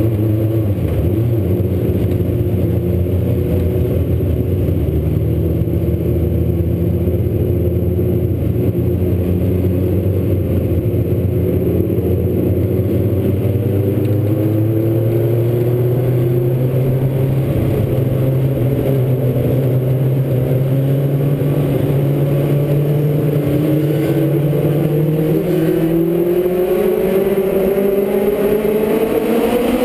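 Legends race car engine running steadily at moderate speed, its pitch climbing over the last several seconds as it accelerates.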